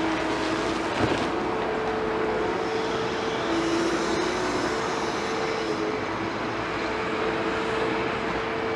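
Liebherr 946 hydraulic excavator running, with a steady engine and hydraulic whine that steps between two pitches as it works, and a single knock about a second in.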